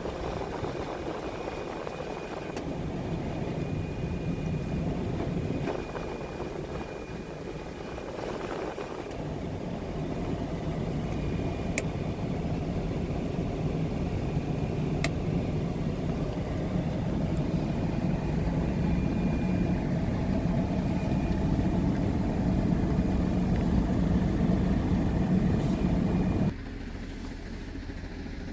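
Scania P truck's diesel engine running steadily at idle, with a faint steady whine above it. It gets louder a third of the way in, and the level drops suddenly near the end.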